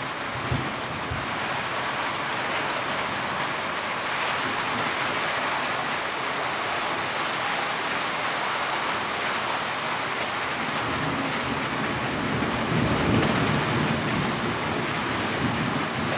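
Heavy rain falling steadily, with a low rumble swelling and fading about two-thirds of the way through.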